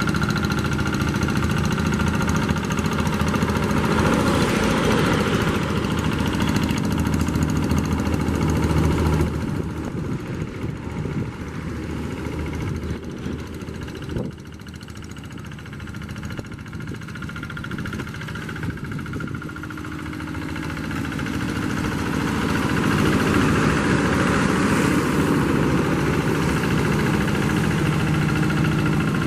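Diesel engine of a two-wheel hand tractor (traktor sawah) running steadily. It drops suddenly in loudness about nine seconds in, then grows louder again over the last third.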